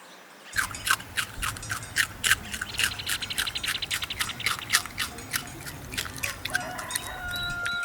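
Rabbit chewing, a quick irregular run of crisp little clicks starting about half a second in. Faint steady whistle-like tones come in near the end.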